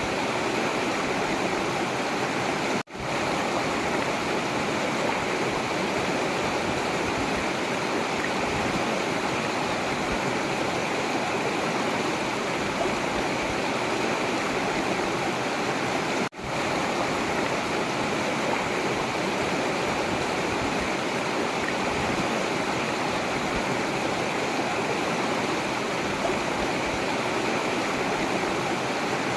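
Forest river water rushing steadily, with two brief dropouts where the sound cuts out for an instant.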